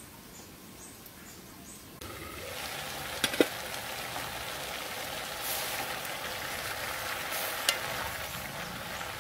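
Stir-fry of vegetables and pork frying in a wok: faint for the first two seconds, then a steady sizzle, with a few sharp clacks along the way.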